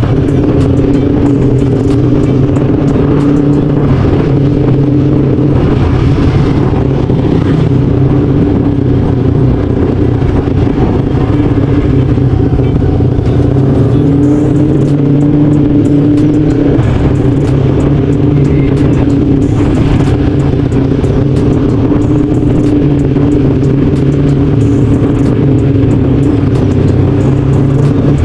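Motorcycle engine running at a steady, low cruising speed, heard from the rider's seat, with an even hum that barely changes pitch.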